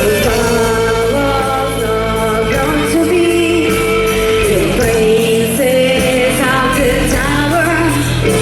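Live rock band playing a song, with the lead singer holding long sustained notes over the band.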